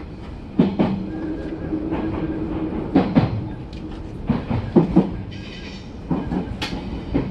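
Odakyu commuter train (3000 series coupled with 8000 series) running, heard from the front cab: a steady rumble with the clickety-clack of wheels over rail joints, the clicks coming in pairs about four times.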